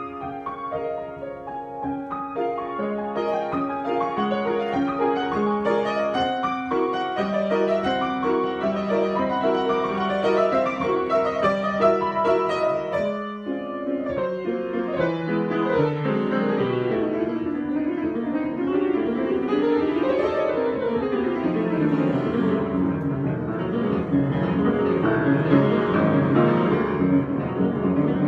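Solo piano improvisation: an even, measured pattern of notes, a brief pause about halfway, then faster rolling figures that sweep up and down the keyboard.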